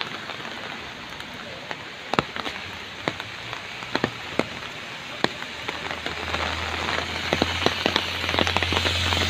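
Heavy monsoon rain pouring down, with drops striking close by as many sharp taps. About six seconds in, a low steady hum comes in and grows louder.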